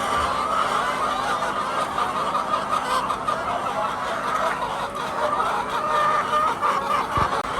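A flock of laying hens clucking together in a dense, continuous chatter, over a low steady hum.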